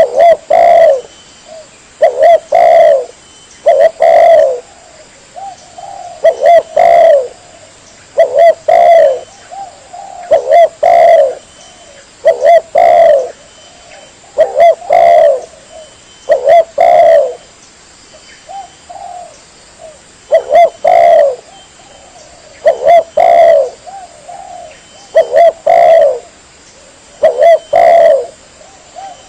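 Spotted dove (tekukur) cooing over and over, used as a lure call: loud phrases of a few low coos each, coming about every two seconds with short gaps between.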